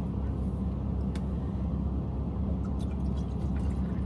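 Steady low rumble, with a single sharp click about a second in.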